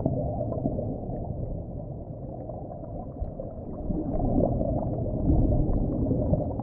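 Muffled underwater ambience: a low, rumbling wash of water noise with faint small crackles and bubbling, swelling a little in the second half.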